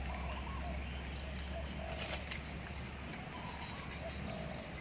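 Birds calling: many short, scattered chirping notes over a low steady rumble, with a brief sharp click about two seconds in.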